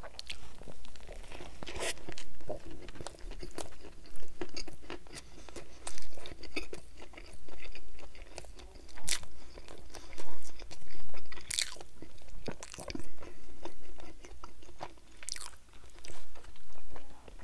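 Chewing and biting into a Burger King Whopper: wet chewing with irregular crisp crunches and mouth clicks, and a few louder bites.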